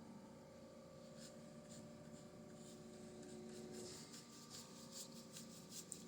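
Faint, soft strokes of a paintbrush on canvas, coming more often in the second half, over a low steady hum.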